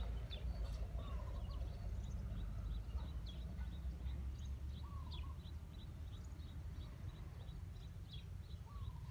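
Birds calling: a steady run of short, high, falling chirps about three a second, with a lower wavering call three times, about every four seconds. A steady low rumble runs underneath.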